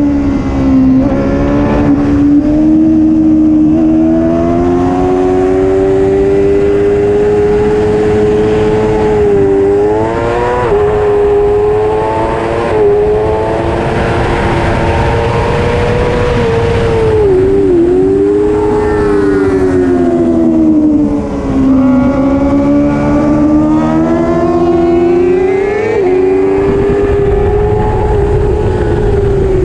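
Racing superbike engine at high revs, its pitch climbing steadily and then dropping sharply at each gear change, with deeper dips where it slows and picks up again.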